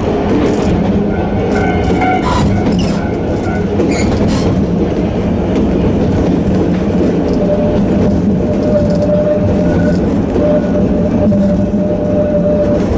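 Narrow-gauge electric train with nose-suspended traction motors running along the track: a steady rumble of wheels and motors, with brief wheel squeals in the first few seconds. From about the middle, a steady motor whine holds one pitch.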